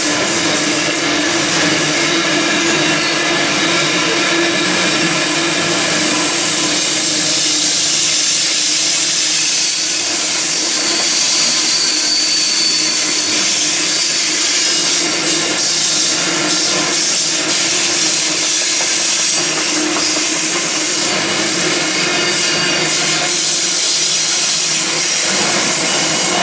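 Grain train hopper wagons rolling past close by: a steady loud rush of steel wheels on rail. A faint thin wheel squeal rises for a couple of seconds near the middle, and a few light clicks come near the end.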